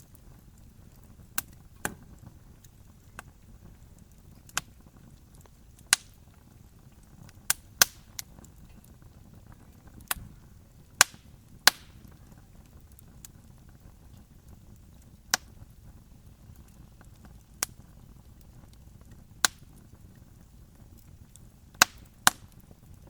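Campfire of burning wood crackling, with sharp single pops at irregular intervals, about one every second or two, over a low steady rumble.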